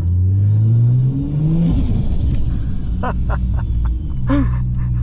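Ford FG Falcon XR6 Turbo's 4.0-litre turbocharged straight-six accelerating hard, heard from inside the cabin. The engine note rises for about a second and a half with a faint turbo whistle climbing alongside. Near the two-second mark it lifts off with a brief rush of noise and settles to a steady low drone while cruising.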